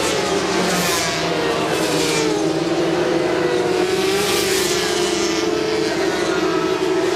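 Several 400cc supersport racing motorcycles at high revs, sweeping past one after another, their engine notes rising and falling as each goes by. Loud swells about a second in, near two seconds, and around four and a half seconds in.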